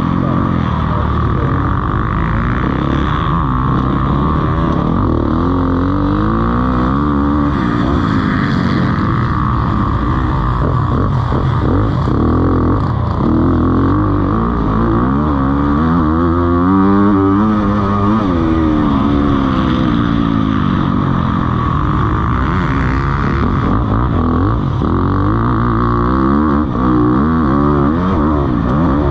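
Motocross motorcycle engines revving hard, the pitch rising and falling again and again as the throttle opens and closes.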